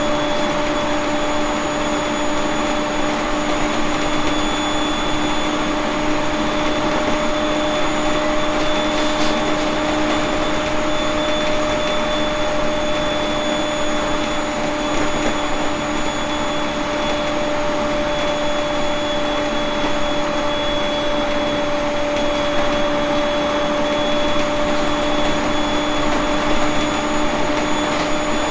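Running noise inside a JR East 701 series 1500-subseries electric train travelling between stations: an even rumble of the running gear with steady, unchanging whining tones.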